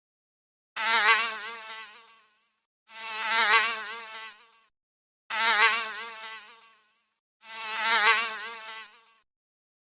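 An animal calling four times, each call about a second and a half long, with a quavering, wavering pitch and short silences between the calls.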